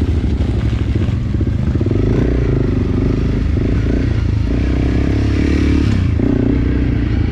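Enduro dirt-bike engine running steadily, its note rising and falling with the throttle, with some clattering.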